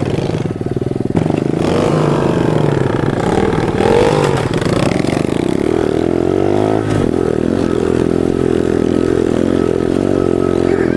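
Small pit bike engine running and revving over rough ground, its pitch rising and falling several times as the throttle is worked.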